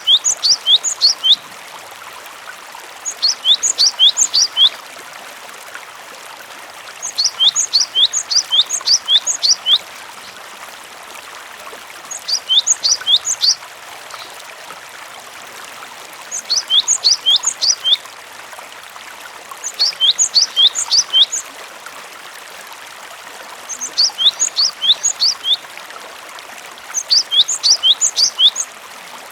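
Gelatik batu (cinereous tit) singing: phrases of rapid, high notes that sweep downward, each phrase about a second and a half long, repeated every three to four seconds. A steady trickle of running water sounds underneath.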